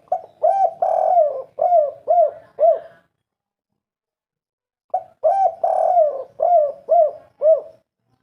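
Spotted dove (tekukur) singing its cooing song, the 'kuk 3' type: two phrases of about six coos each, a longer note near the start of each and shorter clipped coos after, the second phrase starting about five seconds in.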